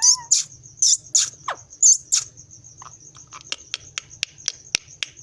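A pet parrot making a short whistle, then a run of sharp, high chirps over the first couple of seconds, followed by softer quick clicks. A faint steady high-pitched tone runs underneath.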